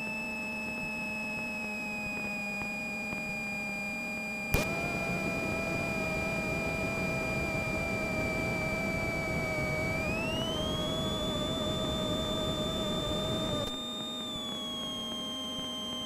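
A steady high-pitched electrical whine in a Cessna 172's headset intercom audio, rising and falling in pitch with engine power. It sinks slowly, rises sharply about ten seconds in and drops again near fourteen seconds. A sharp click about four and a half seconds in brings in a band of hiss that stops just before fourteen seconds.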